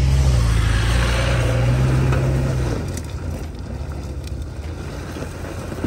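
A 4x4 SUV engine running close by with a steady low hum, loud for about the first three seconds and then dropping to a quieter, steady run.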